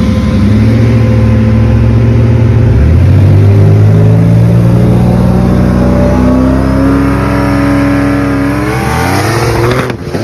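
Turbocharged Ford Mustang and a Cadillac ATS-V revving at the start of a street race, the engine pitch climbing steadily for several seconds. Near the end the revs sweep up sharply as the cars launch and pull away.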